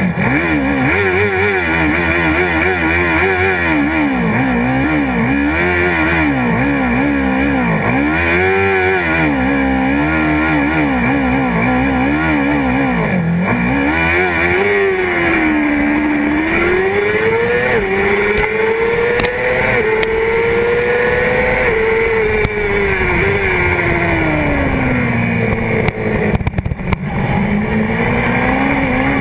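Honda CBR600RR inline-four engine heard from a tank-mounted camera, revved up and down in quick blips for about the first thirteen seconds. It then pulls hard through several upshifts, each a rising pitch with a short drop, then slows with falling revs and picks up again near the end. A burst of knocks comes about 26 seconds in.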